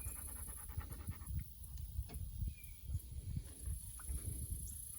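An animal drinking water, faint irregular lapping and gulping sounds.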